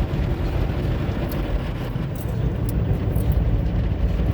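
Automatic tunnel car wash heard from inside the car's cabin: a steady low rumbling rush of the wash machinery and spray, with a few light ticks.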